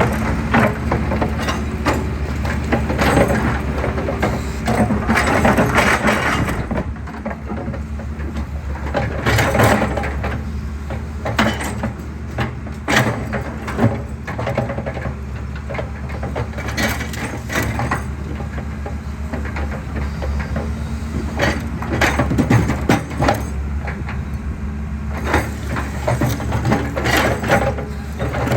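Excavator engine running steadily while concrete is crushed, with irregular cracks and crunches breaking out over the hum throughout.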